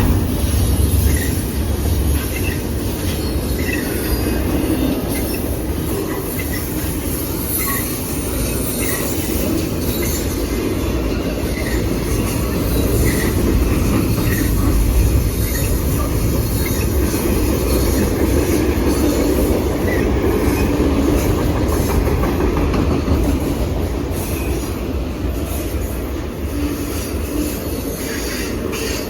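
A train's cars rolling past on the rails in a steady rumble, with short high wheel squeals scattered throughout and wheels clicking over the rail joints.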